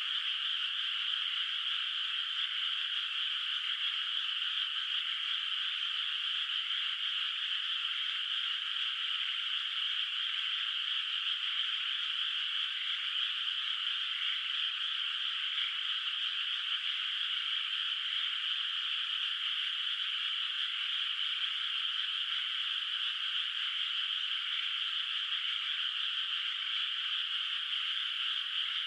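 A dense chorus of many frogs calling together in a flooded rice paddy, merging into one steady, unbroken sound with no single calls standing out.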